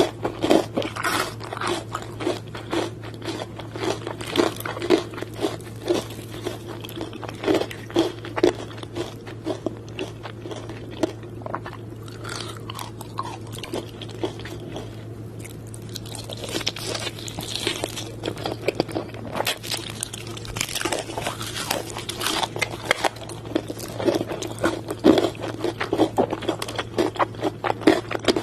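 Close-miked eating of crispy fried chicken: repeated crunchy bites and chewing, thinning out for a few seconds midway before the crunching picks up again, over a steady low hum.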